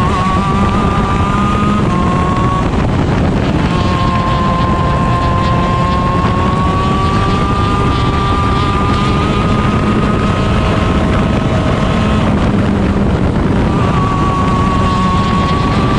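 Stock Honda CR125 two-stroke shifter kart engine running at high revs, its high pitch climbing slowly along the straights. It breaks off briefly about three seconds in and again near the end, when the driver lifts or shifts. Wind buffets the onboard microphone throughout.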